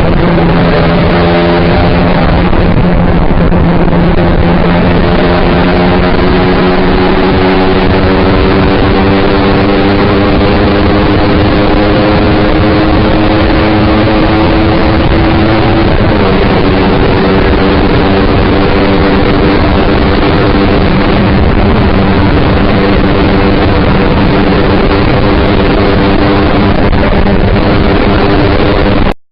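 Yamaha R15 V3's 155 cc single-cylinder engine with an SC-Project aftermarket exhaust running at speed under heavy wind rush on the microphone. The engine note climbs slowly, changes about halfway through, and the sound cuts off abruptly near the end.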